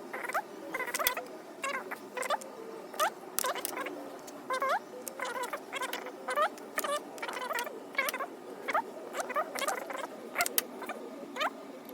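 Hand tools clicking and clinking as they are handled and set down, several sharp clicks a second in an irregular run, with short squeaky chirps among them.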